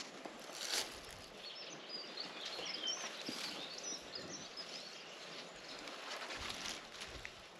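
A songbird sings a quick twittering phrase of high, warbling whistled notes for about three seconds, starting a second and a half in. Brief rustling noises come before and after it.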